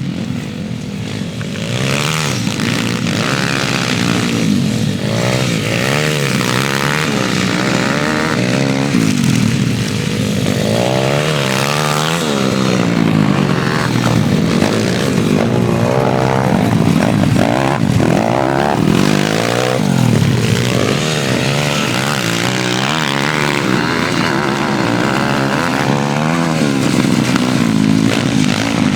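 Pit bike engine being ridden hard, revving up and dropping back again and again as the rider works the throttle and shifts gears.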